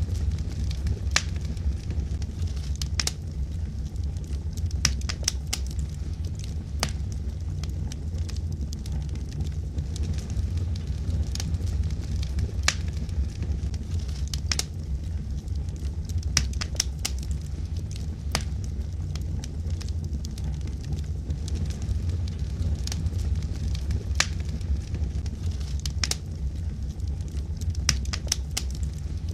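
Wood fire burning in a fireplace: a steady low rumble of flames with irregular sharp crackles and pops from the burning logs, a few each second.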